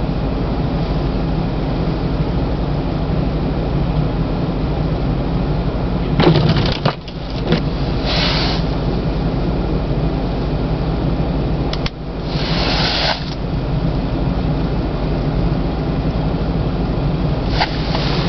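A vehicle engine runs steadily, heard as a low drone, with a few short hissing swishes: a brief one about 8 seconds in and a longer one about 12 to 13 seconds in.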